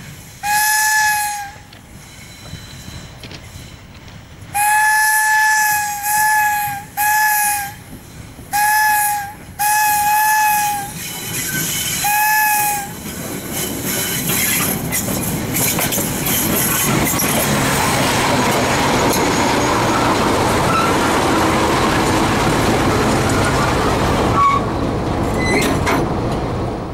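A locomotive horn sounds about seven short blasts on one steady note. Then the locomotive's wheels roll slowly over the turnout, a steady rumbling clatter of wheels over the switch and frog that builds and stays loud until it cuts off at the end.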